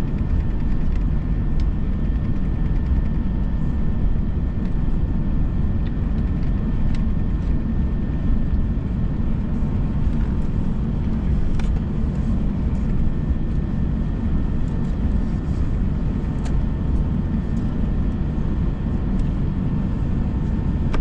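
Steady low rumble inside an Airbus A321 cabin waiting on the ground, with a faint steady whine over it and an occasional faint click.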